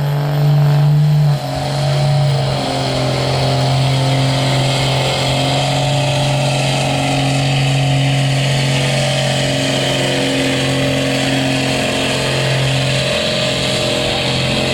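Street-class diesel pickup truck pulling the sled, its engine held at high, steady revs under full load, with a brief dip and a small drop in pitch about a second and a half in.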